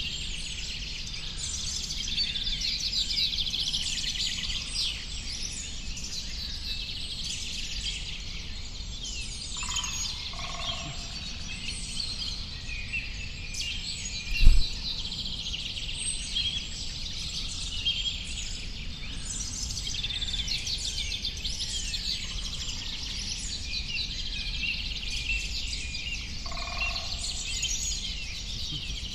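A dense chorus of small birds chirping and twittering continuously over a low background rumble. A single sharp thump about halfway through is the loudest sound.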